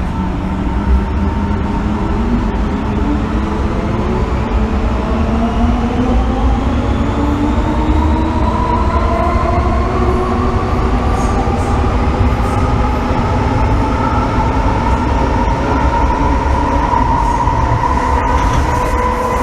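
Inside an MTR M-Train metro car: the traction motors whine in several tones that climb steadily in pitch as the train picks up speed, over a constant rumble of wheels on track.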